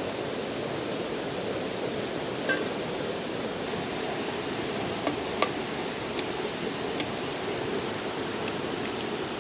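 Steady rush of flowing river water, with a few small clicks and taps scattered over it.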